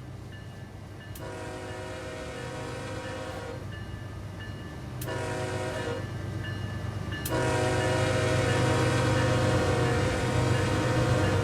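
Locomotive air horn sounding several tones at once, blowing a long blast, a short one, then a long one starting about seven seconds in. This is the end of the long-long-short-long grade-crossing signal. A low engine and rail rumble underneath grows louder as the train approaches.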